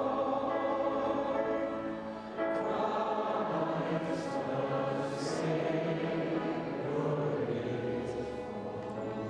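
Choir singing long held chords, breaking off briefly and entering a new phrase about two and a half seconds in.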